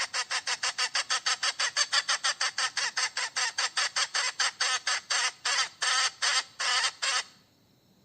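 Hen cackling in a long, even series of short clucks, about six a second at first and slowing to about three a second before stopping abruptly near the end.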